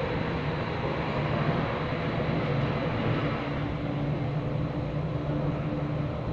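Athens Metro Line 1 electric train running at speed, heard from inside the carriage: a steady rumble of wheels on the rails with a motor hum. A second, higher hum comes in about three and a half seconds in.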